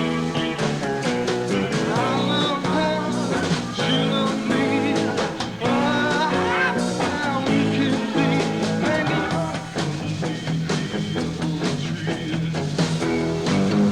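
Live rock band playing loud: electric guitars, bass guitar and drums, with a steady drum beat and bending, sliding notes on top.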